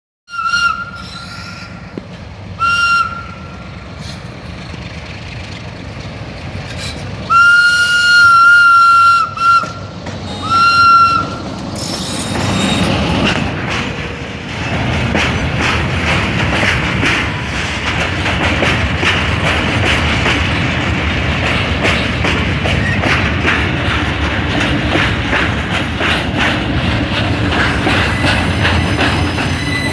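Diesel freight train's horn sounding a salute in five blasts, one long blast among shorter ones, followed from a little before halfway by the train passing at speed, its wagons clattering over the rails.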